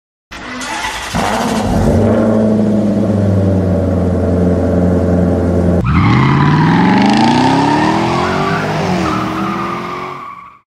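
Car engine sound effect: a steady engine note for about five seconds, then a sudden switch to the engine revving up, its pitch climbing as it accelerates, before it cuts off near the end.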